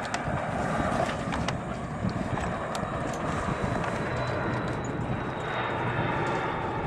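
Steady wind and water noise on a small sailboat, with a few light clicks and knocks of rigging hardware in the first few seconds as the halyard end is handled.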